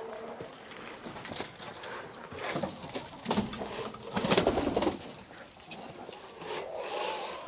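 Chickens clucking and murmuring softly inside the coop, in irregular bouts, the loudest about four seconds in.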